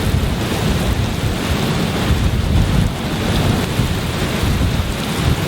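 Severe-storm wind and heavy rain making a steady rushing noise with a deep, uneven rumble underneath.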